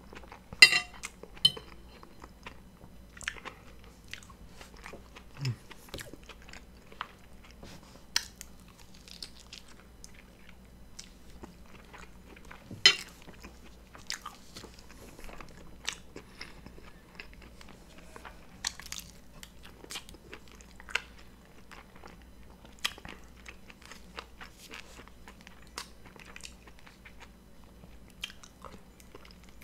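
Person eating: wet chewing and biting with crunchy bites, broken by many short clicks and a few sharper, louder ones, about a second in and again near the middle.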